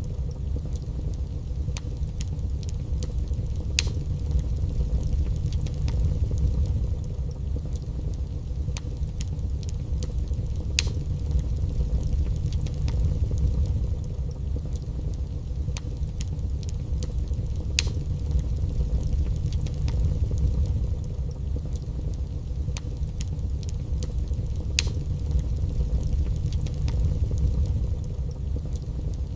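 Wood fire burning in a fireplace: a steady low rumble of flames with light crackling throughout and a sharp pop of burning wood about every seven seconds.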